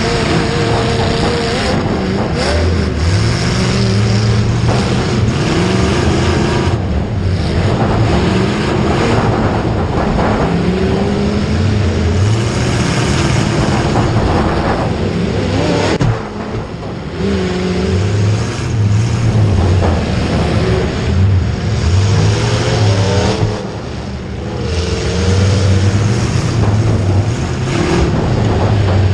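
Vehicle engines running and revving, their pitch rising and falling again and again, with two short drops in level about two-thirds and four-fifths of the way through.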